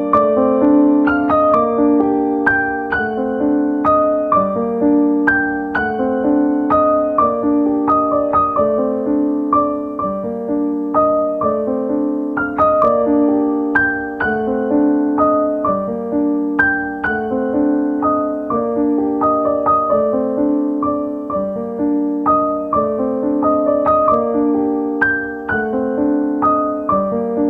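Background music: gentle solo piano playing a repeating melody over a steady, evenly paced pattern of notes.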